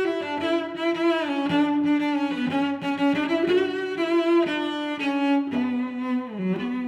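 Background music: bowed strings, cello and violin, playing a slow melody of sustained notes.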